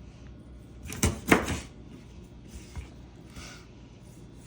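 Two sharp knocks about a second in, typical of a kitchen knife chopping through a chicken wing joint onto a cutting board.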